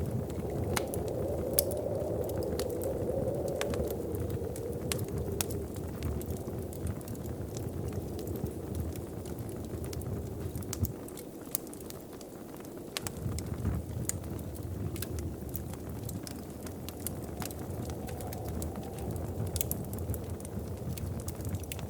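Wood fire crackling in a fireplace: irregular sharp pops and snaps over a low steady rumble of the burning fire, the rumble dropping away briefly about halfway through.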